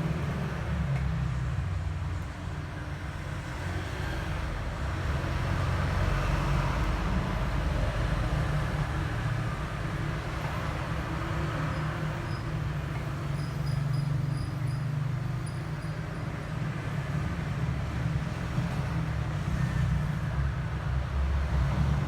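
Steady low rumbling background noise with a faint hiss, like nearby road traffic, with no clear events.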